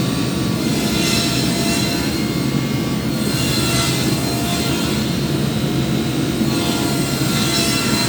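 Electric power sander running steadily on wood, with its high hiss swelling and fading every second or two.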